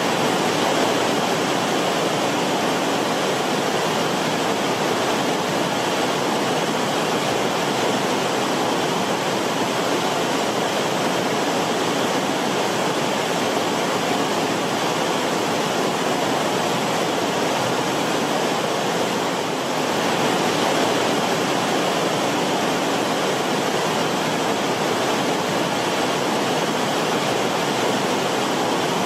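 Creek water running steadily over rocks in the creek bed, a continuous rushing and bubbling.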